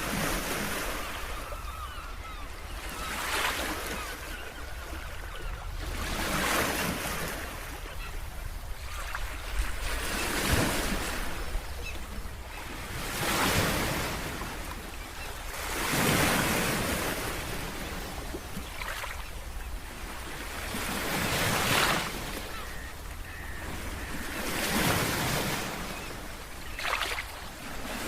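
Ocean surf: waves breaking and washing in, swelling and fading about every three seconds over a steady low rumble.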